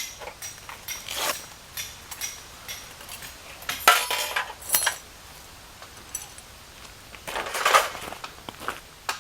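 Camping gear being handled: light metal clinks and rattles, with louder rustling or scraping bursts about four seconds in and again near the end.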